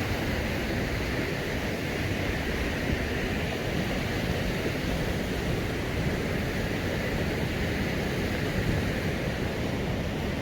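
Steady rush of river water flowing fast and foaming past the mill.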